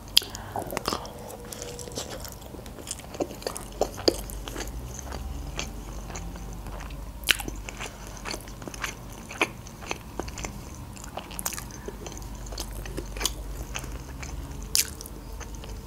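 Chewing a mouthful of lasagna close to the microphone: soft wet mouth sounds with many short, sharp clicks scattered irregularly throughout.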